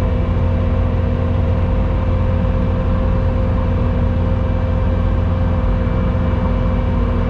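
Skid steer engine running steadily at a constant speed, a low even drone with a steady hum.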